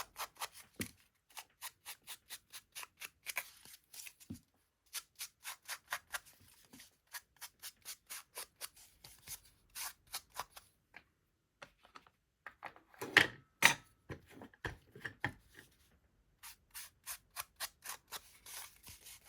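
Ink being rubbed onto the edges of a paper and cardboard journal topper in quick, even strokes, about three a second, with a few louder strokes about 13 seconds in.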